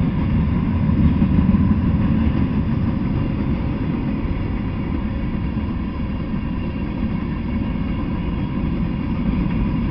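Freight cars rolling past on the rails: a steady low rumble of steel wheels on track.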